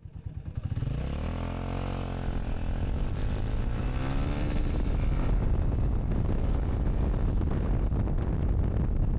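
Motorcycle engine pulling away, its pitch rising and falling through the first few seconds as it accelerates, then settling into a steady low rush at riding speed.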